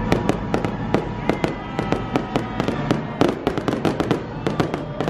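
Aerial fireworks bursting overhead in a rapid, irregular string of sharp crackling pops.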